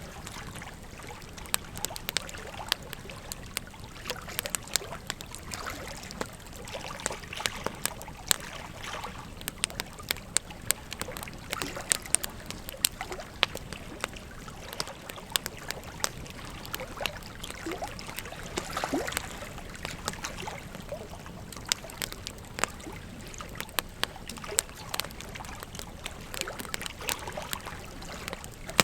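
Wood fire crackling, with frequent sharp pops and snaps over the steady rush of a flowing river.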